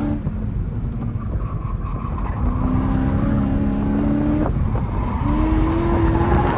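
Mercedes C63 AMG's 6.2-litre V8 heard from inside the cabin, pulling under load on track with its note slowly climbing. The note breaks off briefly with a click about four and a half seconds in, then pulls and climbs again.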